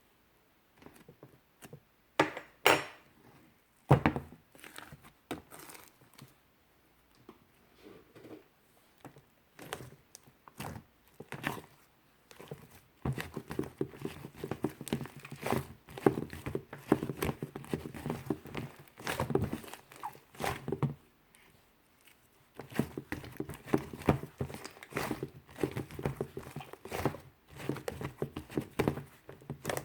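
Fluffy slime being squished and kneaded by hand, with sticky crackles and popping clicks. A few separate pokes and pops come first, then steady, rapid squishing from about halfway in, with a brief pause near the end.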